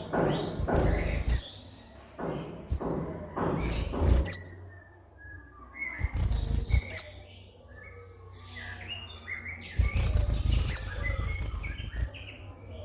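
Olive-backed sunbird ('kolibri ninja') singing: rapid, scratchy chirping phrases, each closed by a sharp, high, falling whistle. The whistle comes four times.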